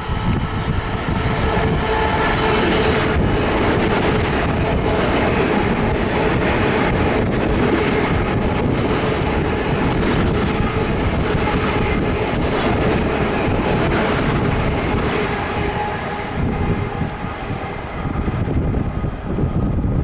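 Long Island Rail Road train passing close by: a loud, steady rumble of wheels on rail with a faint hum, easing slightly near the end.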